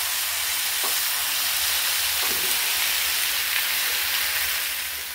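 Tomato wedges and masala sizzling in a hot nonstick frying pan while being gently turned with a silicone spatula: a steady hiss with a couple of faint spatula knocks. The sizzle fades near the end.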